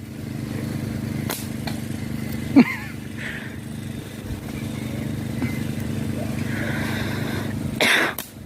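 A small engine runs steadily with an even low drone. About two and a half seconds in, a short sharp sound glides quickly down in pitch.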